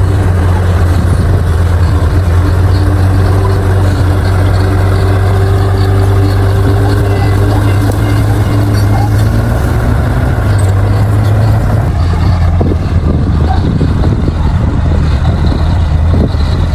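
Crawler bulldozer's diesel engine running steadily with a deep hum, with irregular knocks in the last few seconds.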